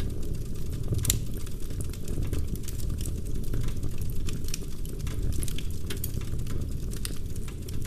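Wood fire burning in a fireplace: a steady low rumble of flames with frequent crackles and pops from the burning logs, one sharper pop about a second in.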